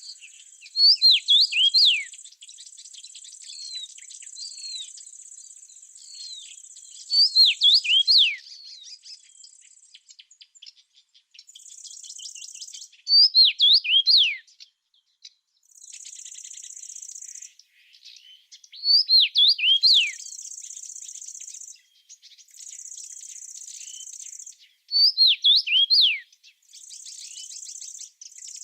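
A songbird repeating a short phrase of quick, falling whistled notes about every six seconds, five times in all, over high insect buzzing that comes and goes in spells of a second or two.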